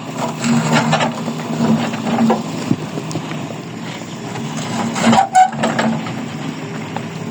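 An engine running steadily with a low hum, with scattered knocks and clatter over it and a sharper clank about five seconds in.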